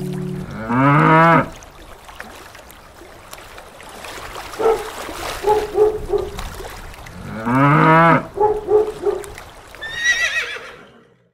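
Cattle mooing twice, a loud call about a second in and another about seven seconds later, each followed by a run of short grunting calls. A high, wavering horse whinny comes near the end.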